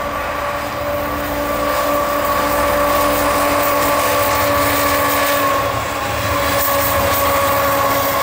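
A Norfolk Southern diesel freight locomotive and its train passing, giving a steady droning note over a dense rumble of engine and rolling stock. Wind buffets the microphone in the snowstorm.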